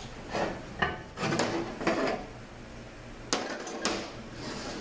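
Steel transmission parts from a 200-4R overdrive drum clinking and knocking as they are handled on the workbench: a handful of separate clinks, with a quick cluster of three a little past the middle.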